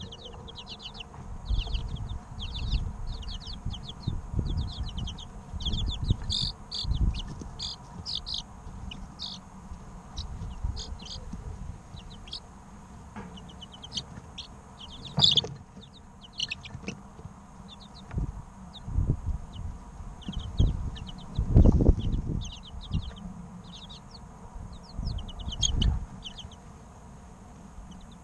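Three-week-old chicken chicks chirping, quick runs of short high peeps that go on throughout, with scattered low thumps underneath, the loudest about two-thirds of the way in.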